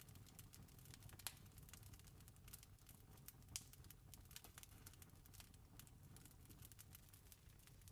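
Faint campfire crackling: an irregular stream of small pops and snaps over a low steady rumble, with two sharper pops about a second and three and a half seconds in.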